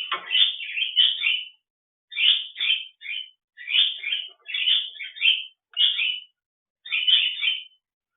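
Bird chirping in quick clusters of short calls, one cluster after another with brief gaps between.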